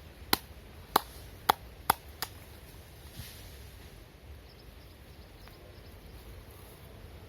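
A masseur's hands striking a client's body in percussive massage, five sharp slaps in the first two seconds or so, then they stop.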